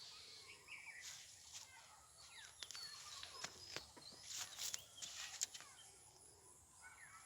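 Faint bird calls outdoors: short chirps and whistles, with a run of sharp clicks in the middle.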